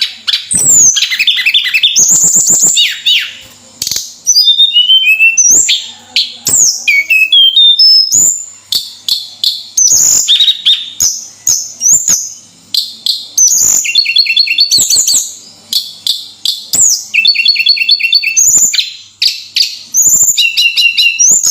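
Tledekan gunung songbird singing in full, continuous song: quick chattering trills, rising and falling whistled slurs, and runs of rapid repeated notes, with only brief pauses between phrases.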